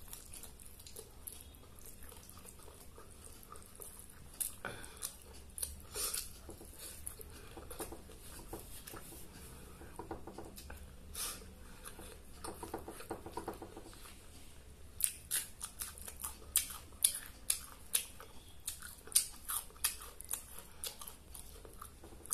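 A person eating rice and chicken with the fingers: close-up chewing and wet mouth clicks. The clicks are scattered at first and come several a second in the last third.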